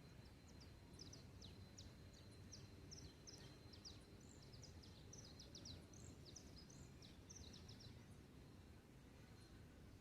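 Faint dawn birdsong: a bird giving a run of quick, high chirps from about half a second in until near the end, over a low steady background rumble.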